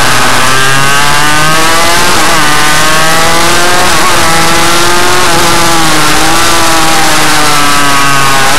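Suzuki RM85 single-cylinder two-stroke engine running hard, very loud, its pitch rising and falling several times as the throttle is opened and closed.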